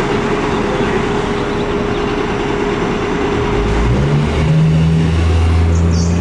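A 1999 Spartan/KME fire engine on a run, with steady vehicle noise. About halfway through, a deep, low drone rises in steps and then holds to the end.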